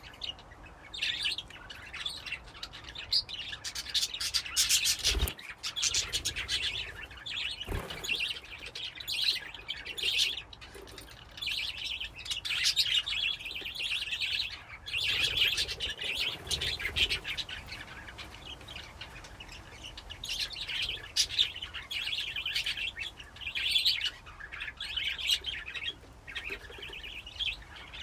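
A flock of budgerigars chirping and chattering continuously, many birds calling over one another, with a couple of brief soft thumps.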